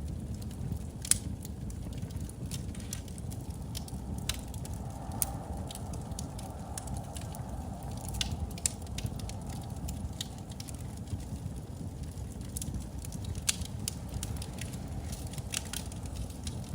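Wood fire burning in a fireplace: a steady low rumble with irregular crackles and pops, the sharpest about a second in.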